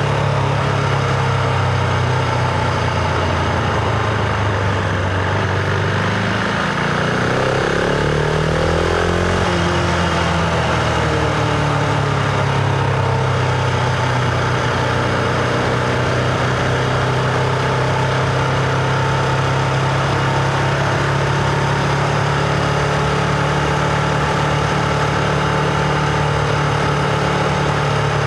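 Husqvarna Vitpilen 701's single-cylinder engine running loudly as heard from the rider's position; its pitch rises and falls for the first ten seconds or so, then holds steady.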